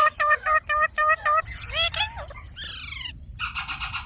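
Ringneck parrot calling: a quick run of about eight short, repeated notes, then a few gliding calls and a falling call, ending in a harsh, buzzy squawk.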